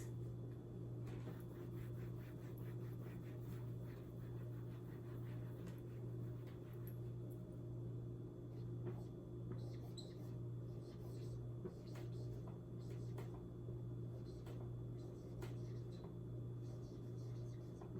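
Writing: short scratching strokes and light clicks, thickest in the first few seconds and scattered after, over a steady low hum.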